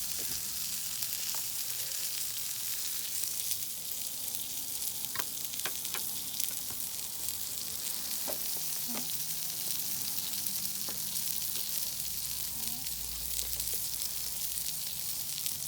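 Food sizzling on a barbecue grill: a steady, crackling hiss with constant fine pops.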